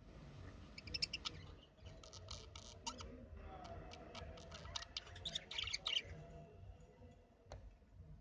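Budgerigars chirping and chattering in quick runs of short, high calls, busiest over the first six seconds and thinning out after. There is a single sharp click near the end.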